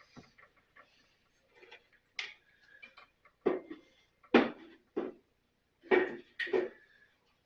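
Tools and parts being handled and set down: a string of separate short knocks and clatters, the loudest about four and a half and six seconds in.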